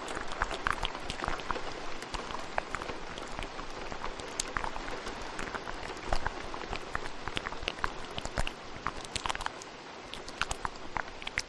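Steady rain hiss layered with many quick, irregular wet mouth clicks and pops.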